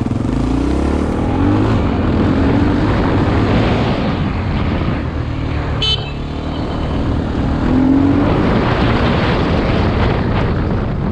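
Single-cylinder dual-sport motorcycle engine under way, its pitch climbing with the throttle several times, over steady wind and road noise. There is a brief high chirp about halfway through.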